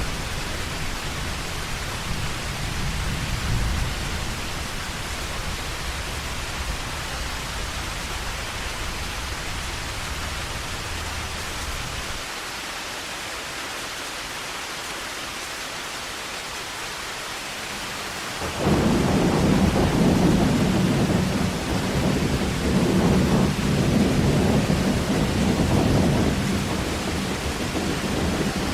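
Heavy rain falling steadily, with low thunder rumbling. About two-thirds of the way in, a loud peal of thunder breaks in suddenly and rolls on, swelling and easing, to the end.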